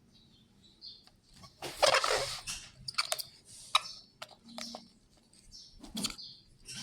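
Birds calling in short high chirps, with a loud noisy burst about two seconds in and a few sharp clicks after it.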